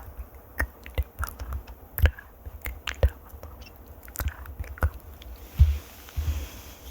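Close-miked ASMR trigger sounds: irregular sharp clicks and crackles, several a second, with two low thumps in the second half.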